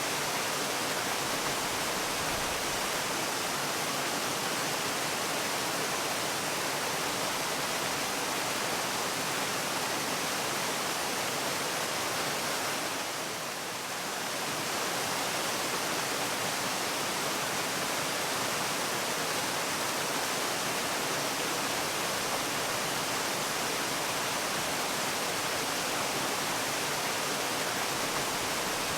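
Steady rush of falling water from a waterfall, an even hiss with no breaks. It dips slightly in loudness for a moment about halfway through.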